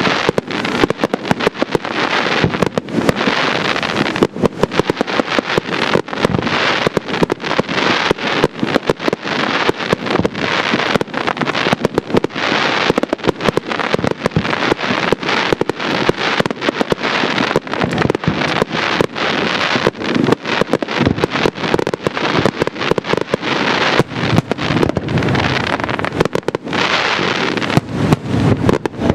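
Fireworks display: a dense, continuous barrage of aerial shell bursts and crackling, many sharp bangs a second without a break.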